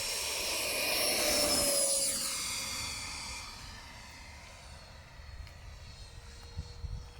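Electric ducted-fan model jet flying past: a high fan whine with several tones swells to its loudest a second or two in, drops in pitch as it passes, then fades to a faint distant whine.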